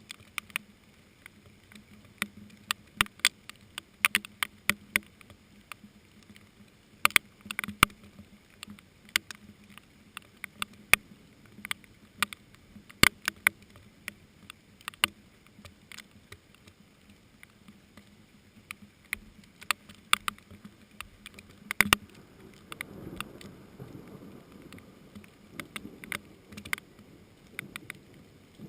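Rain falling on hot wax pepper plants: big drops land in irregular sharp taps over a faint rain hiss. A low rumble comes in about three-quarters of the way through.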